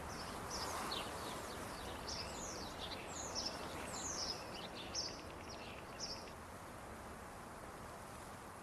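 A small bird singing: a run of quick, high notes that each slide down in pitch, stopping about six seconds in. A steady outdoor background hiss runs underneath.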